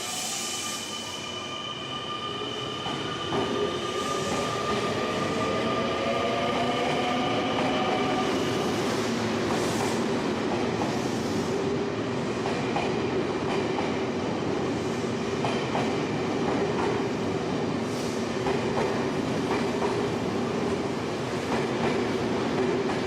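Electric train accelerating, its motor whine rising in pitch over the first several seconds, then running steadily with wheels clicking over rail joints.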